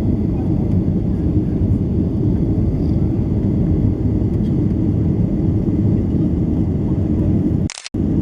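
Steady low rumble of a Boeing 737-800's CFM56 jet engines and rushing air, heard inside the cabin in flight shortly after takeoff. Near the end it breaks off for a moment with a short hiss.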